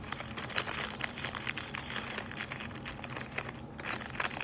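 Paper food wrapper crinkling and rustling as it is handled, a dense run of small irregular crackles.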